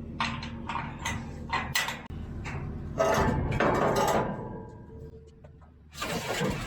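Compact track loader's diesel engine running low under a string of knocks. Two louder scraping crashes come about three seconds in and near the end, as the bucket works at stumps and dirt.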